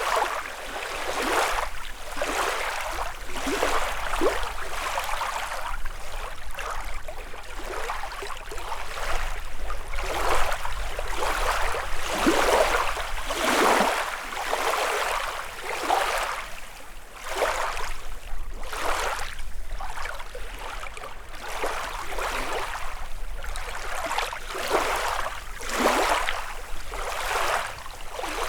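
Small lake waves lapping and splashing at the shoreline, a short wash about once a second, some louder than others.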